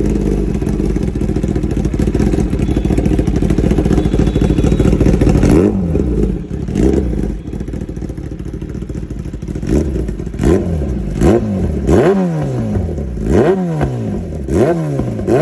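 Kawasaki ZX-10R's inline-four engine through an SC-Project full-system exhaust, running at a steady raised idle, dropping to a lower idle about five seconds in, then blipped repeatedly, with about seven quick revs that rise and fall sharply.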